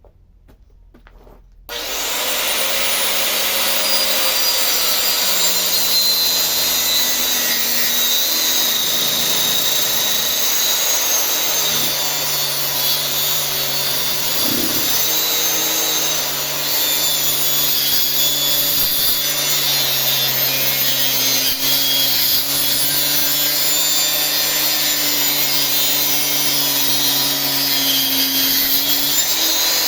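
Chainsaw running under load as it cuts into a wooden stump, its engine note holding steady with small dips. It starts abruptly about two seconds in.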